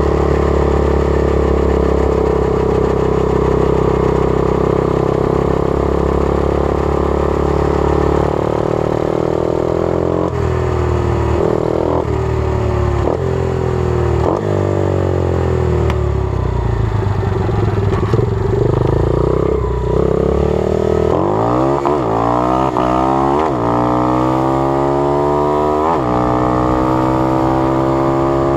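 120cc pit bike engine running under way. For about the first eight seconds it holds steady revs, then the revs rise and fall. Near the end it accelerates through several quick gear changes, the revs climbing and then dropping sharply at each shift.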